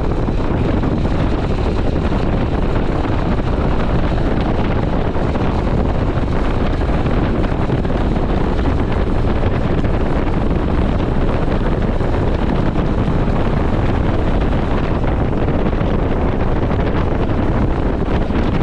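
Wind buffeting the microphone of a camera riding on a Honda CT125 Hunter Cub motorcycle, a steady low rush, with the bike's small single-cylinder engine running underneath.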